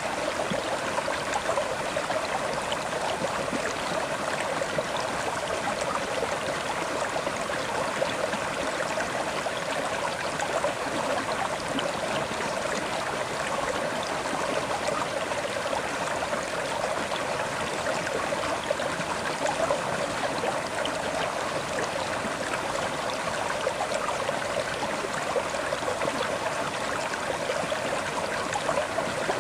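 River water flowing over rocks, a steady rushing and babbling with small splashes throughout.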